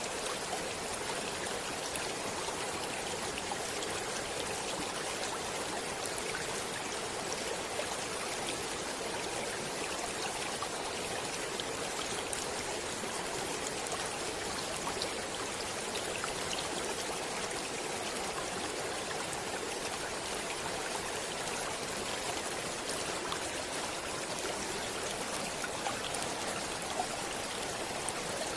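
Flowing stream water running steadily, an even rushing with small splashing droplets scattered through it.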